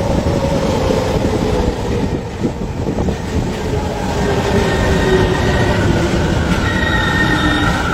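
Japanese commuter train running, a heavy steady rumble with high squealing tones that shift in pitch, growing stronger in the second half.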